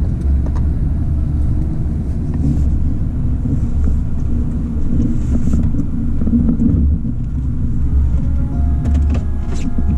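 A plow vehicle's engine runs steadily with a loud, continuous low rumble as it works through the snow.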